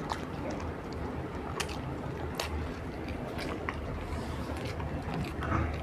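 Close-up chewing of soft puran poli (sweet stuffed flatbread) with small wet mouth clicks, over a low steady hum.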